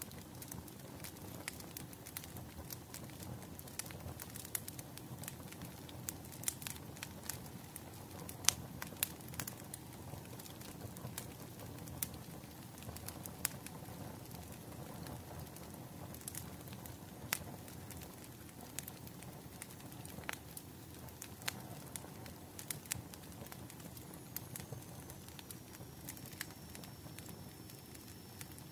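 Wood fire crackling: irregular sharp pops and snaps over a low steady rumble of burning, with a faint high whistle coming in near the end.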